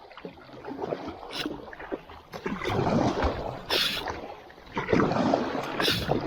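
Kayak paddle strokes in the water, with a short splash about every two seconds and water rushing between them.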